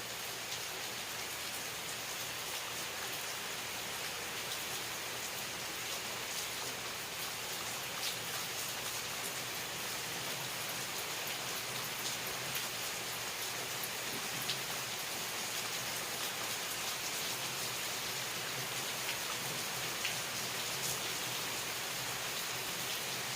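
Steady rain falling, an even hiss with scattered individual drops ticking against a surface.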